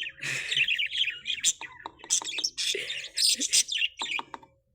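Small pet parrots chirping and twittering in quick, overlapping short calls, with a few sharp clicks among them.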